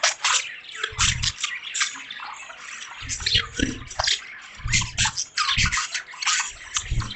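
A group of caged budgies chirping and chattering rapidly and continuously, with a watery, dripping sound underneath and several short low bursts.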